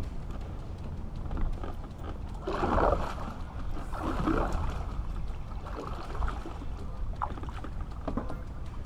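Kayak and its gear being handled: scattered knocks and clicks over a steady low rumble, with two louder rushing swells about two and a half and four seconds in.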